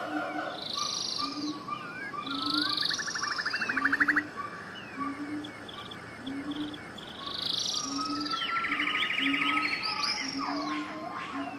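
Several songbirds singing at once: chirps, buzzy trills and sweeping whistles overlapping. A short low note repeats about once a second underneath.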